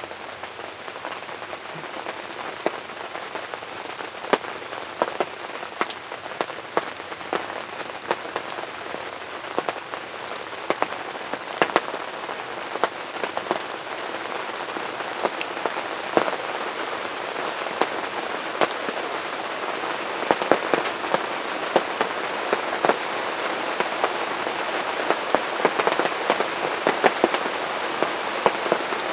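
Steady rain falling on a hunting ground blind, with many separate drops ticking sharply on it; the rain grows a little louder toward the end.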